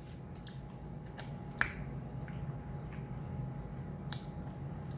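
Eating noises: a handful of small sharp clicks and smacks, the loudest about a second and a half in, over a faint steady hum.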